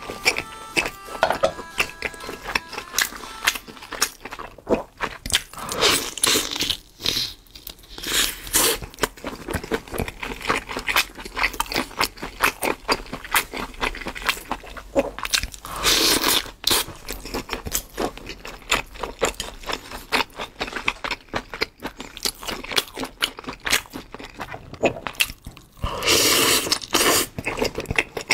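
Close-miked eating: a person biting and chewing wet, sticky food with mouth clicks and smacks. A few louder, longer bursts come in about a quarter, half and most of the way through.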